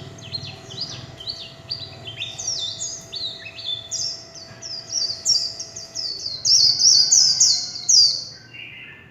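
White-eye singing a fast, continuous warbling song of quick, high, down-slurred notes, loudest in its last couple of seconds and breaking off shortly before the end.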